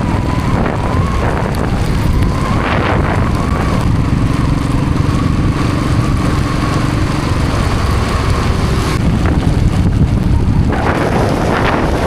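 Wind buffeting the microphone of a moving motorcycle, a loud steady rumble with the bike's engine running underneath.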